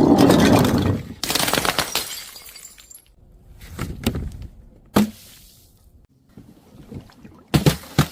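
Glass breaking: a loud shattering crash, then a second burst of crunching with shards tinkling for a couple of seconds. Quieter scattered knocks follow, with a few sharp impacts near the end.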